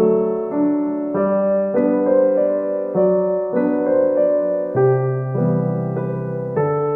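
Background piano music: slow, gentle notes and chords changing about every half second.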